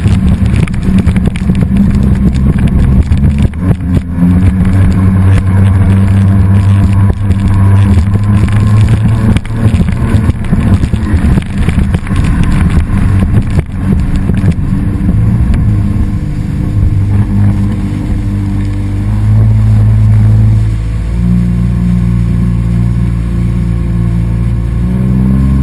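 A motor engine running continuously, with rough, gusty noise over it for the first half. In the second half it is steadier, and its pitch steps up a few times as it is throttled.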